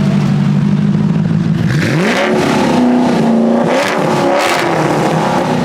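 Supercar engine idling, then revved hard: the pitch sweeps up sharply about two seconds in, is blipped several times with short loud blasts, and drops back toward idle near the end.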